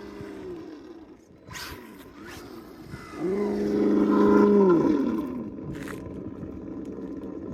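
A 4S electric Kyosho Inferno GT3 RC car running flat out. Its whine fades in the first second, then comes back sharply about three seconds in, holds steady for a second and a half and drops away as the car goes by.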